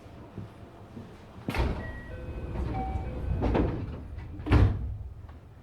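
The sliding passenger doors of a JR West 321 series train closing, heard from inside the car. They slide for a few seconds and shut with a loud thud about four and a half seconds in. A few short tones sound while they move.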